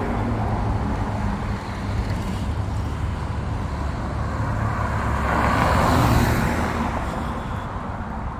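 Road traffic: cars driving by, with one vehicle passing close and loudest about six seconds in, over a steady low rumble.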